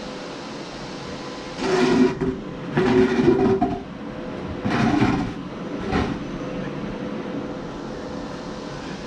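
Steady hum of the Primeweld TIG 225X welder's cooling fan, broken by four louder bursts of handling noise over a few seconds.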